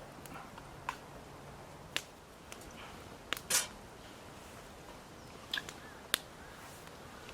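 Campfire crackling: scattered sharp pops and snaps from burning wood, about six over a few seconds, with a slightly longer crackle near the middle.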